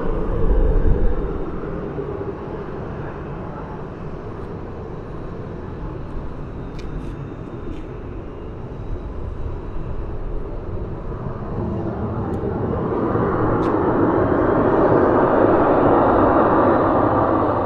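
Jet airliner engine noise outdoors, a steady rush that swells to its loudest about three-quarters of the way through and then begins to ease as the aircraft passes.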